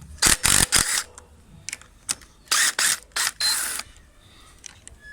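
Ratchet wrench with a 12 mm socket clicking through quick strokes as it undoes handlebar clamp bolts. The strokes come in two bursts, about three in the first second and about three more from about two and a half seconds in.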